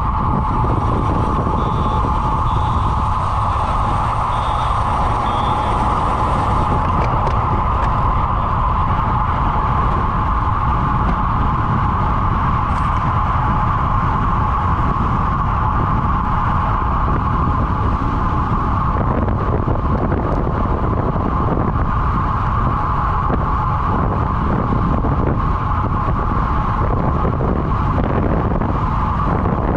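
Steady rushing wind noise on the microphone with a low rumble and a constant hum, unbroken throughout. Four faint short beeps sound within the first six seconds.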